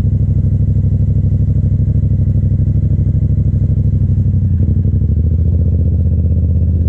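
Yamaha FZ-07's 689 cc parallel-twin engine running steadily at low revs, with an even pulsing exhaust note.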